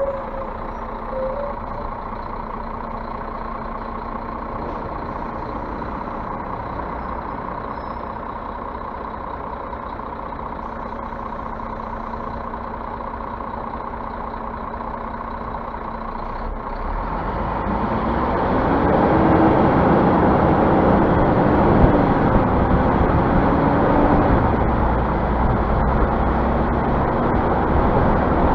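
Scania bus engine running steadily, then revving up with a rising pitch and getting louder about 17 seconds in as the bus pulls away or accelerates.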